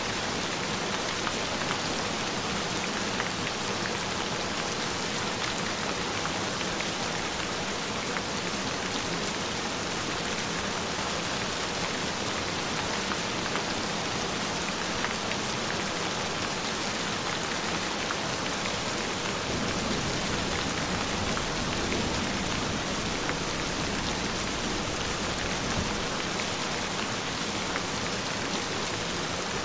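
Steady gentle rain, with a faint steady tone held underneath it.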